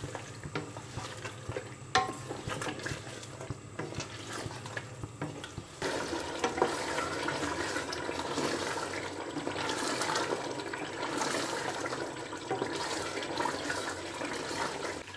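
Beef with yogurt and green chillies sizzling and bubbling in a steel pot on high heat, while the yogurt's liquid cooks off, stirred with a wooden spatula that scrapes and knocks against the pot. The sizzle gets louder about six seconds in.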